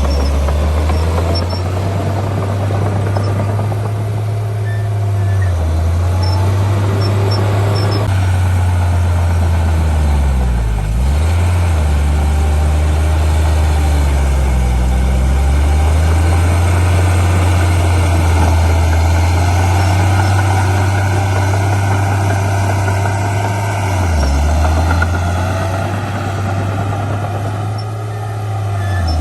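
Heavy diesel engine of earthmoving machinery running steadily with a deep hum; several times its pitch dips sharply and climbs back as the engine slows and picks up again under changing load.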